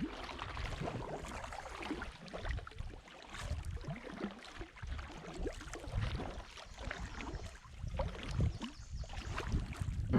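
Kayak being paddled down a river: paddle blades dipping and splashing in the water in uneven strokes about every second or two, over a low rumble.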